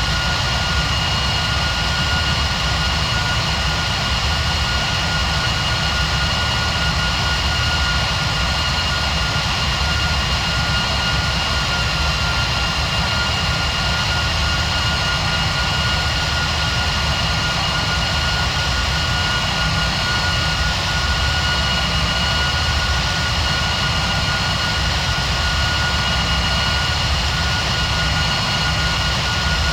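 Steady jet engine and airflow noise inside the cabin of a Boeing 737 MAX 9 in flight: a deep rumble and an even rush of air, with a constant high whine from its CFM LEAP-1B turbofan engines.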